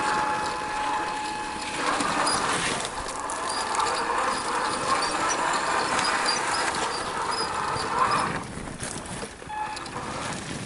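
1/6-scale RC Willys Jeep crawler driving off-road: a steady whine from its motor and gears that stops about two seconds in, over rough, irregular noise from the drivetrain and tyres working over the ground. The sound gets quieter near the end.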